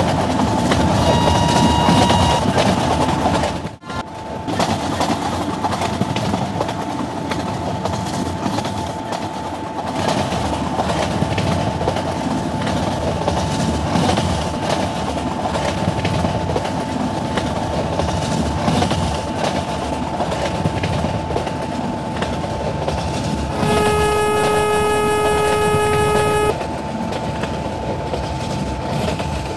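A train running past on the rails, its wheels and coaches making a continuous loud rumble and clatter. The train horn sounds once for about three seconds near the end, and a shorter, higher horn note comes in the first couple of seconds.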